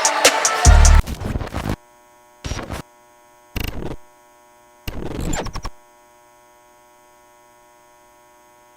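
Music with a drum beat cuts off about a second in, leaving a faint steady electrical hum. Three short bursts of noise break in over the next few seconds.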